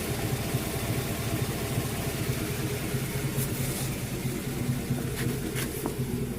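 Chevrolet Silverado pickup idling through an MBRP single-outlet cat-back exhaust, a steady, deep exhaust note with no revving.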